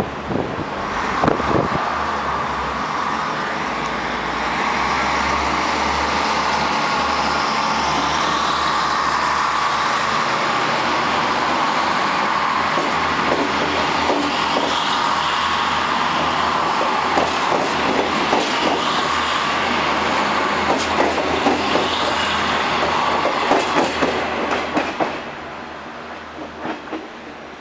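Diesel railcar passing close by, its engine running steadily under the rush of the train and its wheels clacking over rail joints as it goes by, then the sound fading as it pulls away near the end.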